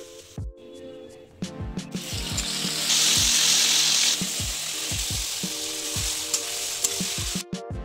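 Chopped tomatoes going into hot oil and fried onions in a kadhai, setting off a loud sizzle that is at its strongest about three seconds in, then eases off and stops sharply near the end as a spatula stirs. Background music with a steady beat plays underneath.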